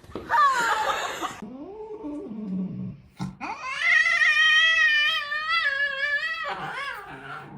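A cat yowling: a short falling cry, some lower-pitched grumbling, then one long wavering yowl of about three seconds and a shorter cry near the end.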